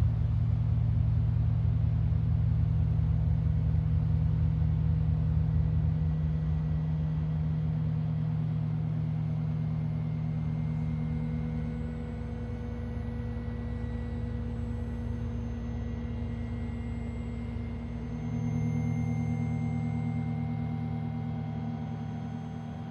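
A steady low humming drone of held tones, with a few fainter ringing tones above it. It slowly gets quieter and fades out near the end.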